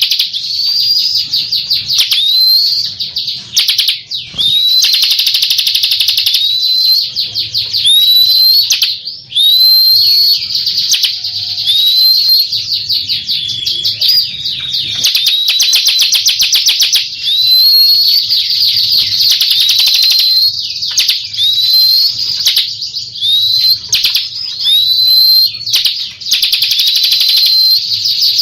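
Bar-winged prinia (ciblek) singing: a fast, buzzy, high-pitched trill broken by a short upslurred whistle about once a second.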